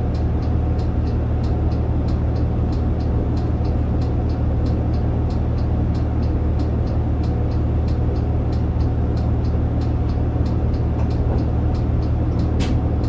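Route bus diesel engine and drivetrain running steadily under way, heard from inside the cabin as a constant low drone. A light regular ticking sounds about four times a second, and a brief high squeak comes near the end.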